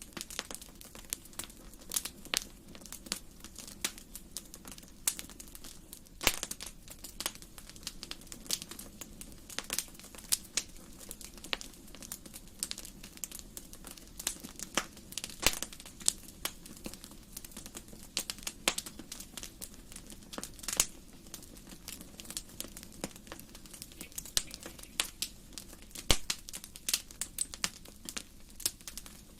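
Wood fire burning in a fireplace, crackling with many irregular sharp pops over a low steady rush, a few of the pops louder than the rest.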